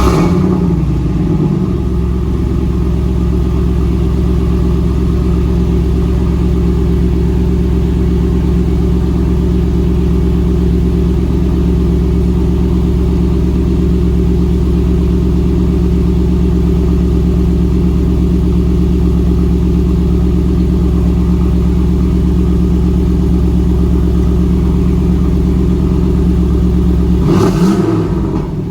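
1992 Firebird Formula's 5.7L V8 through a Flowmaster 80 Series exhaust, cold-started: it catches at the very start and settles into a steady idle, with a short rise and change in pitch near the end.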